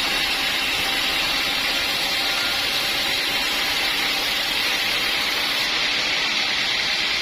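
Sawmill machinery running: a steady mechanical noise with a constant hiss, unchanging throughout.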